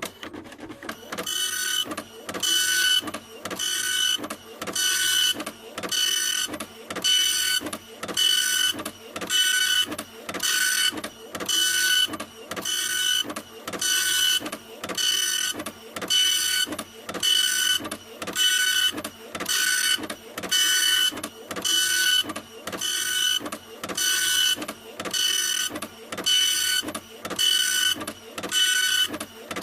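A printer running, its mechanism making a whirring pass about once a second, each pass carrying a steady high-pitched whine, in an even, unbroken rhythm.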